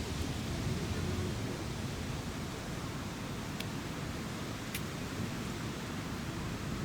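Wind buffeting the microphone in a crosswind: a steady rushing hiss with a gusty low rumble, and two faint ticks near the middle.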